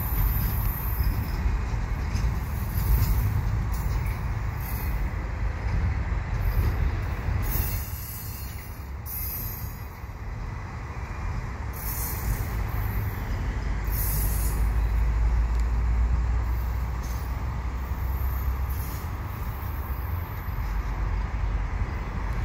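Double-stack container train of loaded well cars rolling past: a steady low rumble of steel wheels on rail, with short bursts of high-pitched wheel squeal every few seconds.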